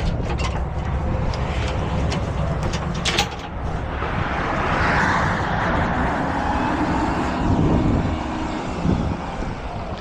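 Heavy diesel truck engine running, with a few metal clicks in the first few seconds and a rushing noise that swells and fades around the middle.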